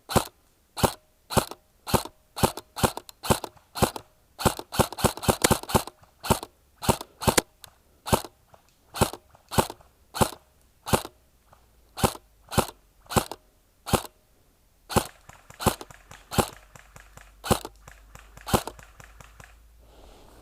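Specna Arms SA-B05 airsoft electric rifle firing single shots in a steady string, mostly about two a second, with a quicker flurry of shots a few seconds in and more spaced-out shots in the last third.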